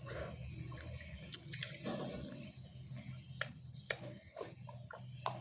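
Someone eating Indomie instant noodles: chewing and wet mouth sounds with scattered small clicks, over a steady low hum.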